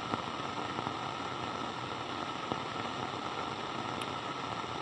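Steady radio static hiss from a walkie-talkie channel, with a faint click about four seconds in.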